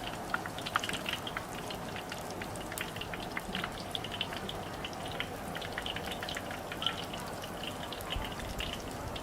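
Food frying in hot oil in a wok: a steady sizzle with many small, irregular crackling pops.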